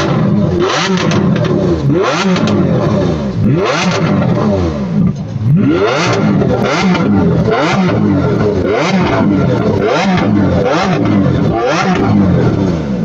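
A car engine revved hard over and over, about once a second, its pitch sweeping up with each rev and dropping back between.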